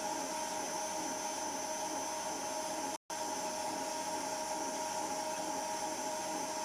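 Electric stand mixer motor running steadily with a high whine, its whisk beating a batter of eggs, sugar, honey and oil as flour is added. The sound cuts out briefly about three seconds in.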